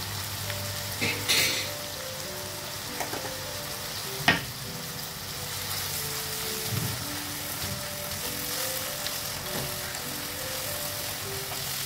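Onion-tomato masala sizzling in a nonstick frying pan as a plastic spoon stirs in green coriander paste and turmeric, with a few scrapes and knocks of the spoon against the pan, the sharpest about four seconds in. Soft background music plays underneath.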